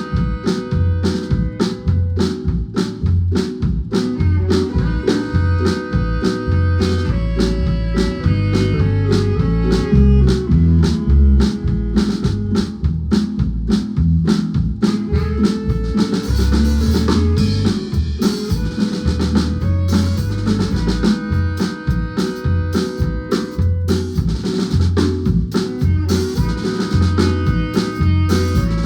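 Guatemalan marimba band playing a tune with a drum kit and bass keeping a steady beat.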